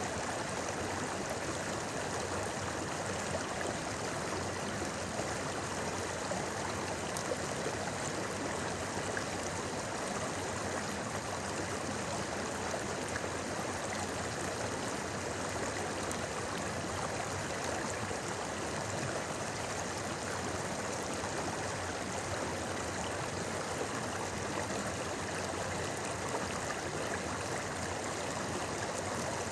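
Clear river water babbling steadily over stones: an even, unbroken rush.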